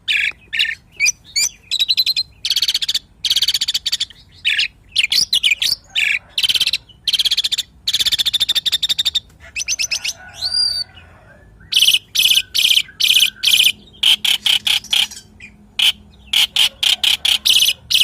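Asian pied starling (jalak suren) singing in full, continuous song: long runs of rapidly repeated notes and whistles, with a brief quieter gap about halfway through.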